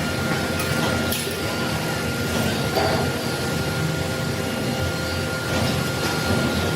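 A machine running steadily, with a low rumble and a thin, steady high whine.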